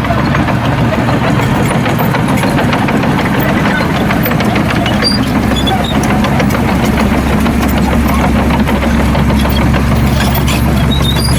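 Heavy diesel engine of a bulldozer or dump truck running steadily, a low drone with a dense rattle over it.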